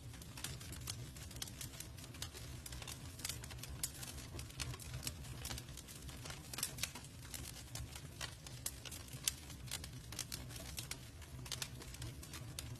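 Campfire burning, with many irregular sharp crackles and pops over a steady low rumble.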